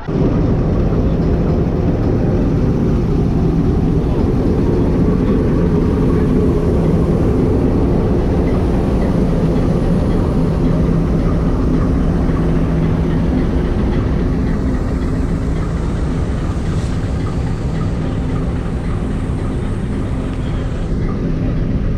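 Steady loud rumble of a heritage train, with a constant low engine-like hum under it.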